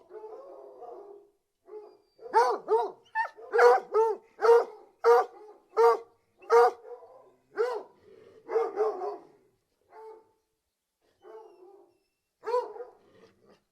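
A hunting hound barking: faint whining at first, then a quick run of about a dozen sharp barks, roughly one and a half a second, tailing off into a few fainter barks with a last bark near the end.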